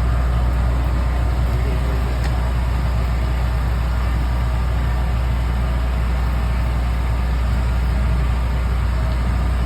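Steady, loud low hum of an engine running at idle.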